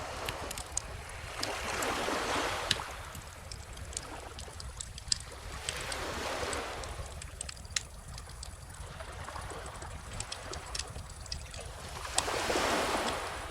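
Calm ocean waves washing ashore three times, several seconds apart, under the irregular crackle and sharp pops of a wood bonfire.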